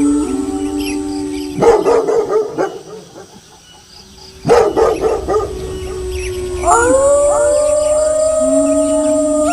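Several wolves howling together in long, overlapping notes, broken by two loud bursts of dog barking, about two seconds in and again about five seconds in. About seven seconds in, a new chorus of howls starts, each voice rising in pitch and then holding.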